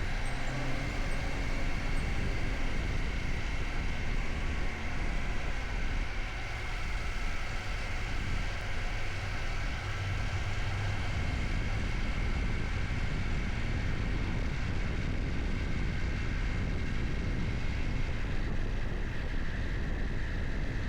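Motorcycle running steadily under way, its engine drone mixed with steady wind and road noise.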